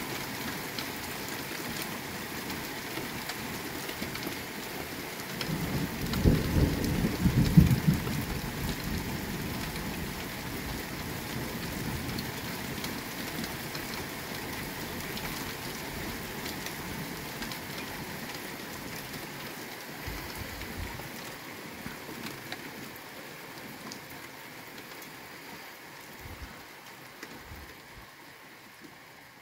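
Steady rain falling on a road and rooftops, with a low rumble of thunder about six seconds in that lasts two or three seconds. The rain grows quieter near the end.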